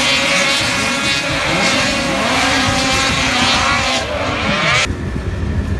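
Several two-stroke snowcross race sleds revving up and down, their overlapping engine pitches rising and falling. It cuts off suddenly about five seconds in, leaving a low rumble.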